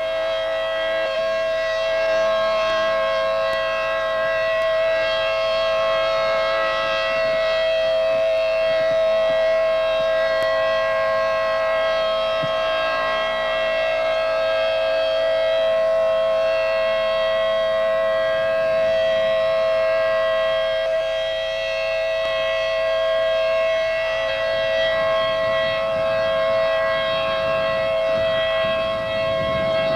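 Outdoor warning siren sounding a steady, unbroken tone throughout, with only slight swells in level, the alarm for an approaching tornado.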